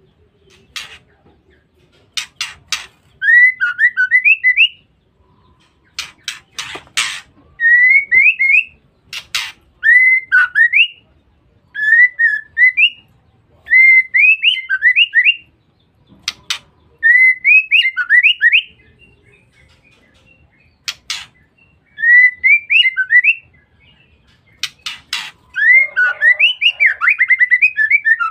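Female white-rumped shama calling: short bursts of quick rising chirps, ngeriwik, repeated every second or two, with sharp clicking notes between the phrases.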